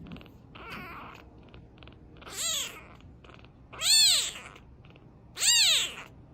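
A domestic cat meowing three times, each meow rising then falling in pitch; the second and third are the loudest.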